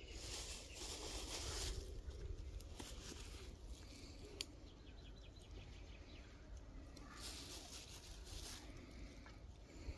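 Quiet outdoor sounds: rustling and shuffling twice, near the start and again about seven seconds in, one sharp click midway, and faint soft bird calls.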